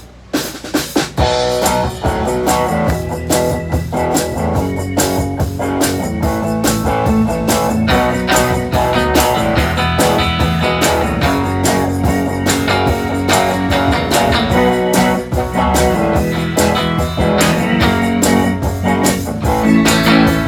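Live band playing an instrumental blues-style passage on guitars with a bass line and a steady beat, starting about half a second in.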